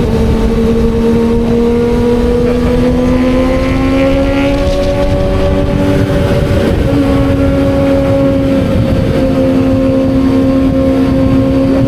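Kawasaki Z900 inline-four motorcycle engine at cruising speed. Its pitch climbs gently over the first few seconds as it gathers speed, then holds steady.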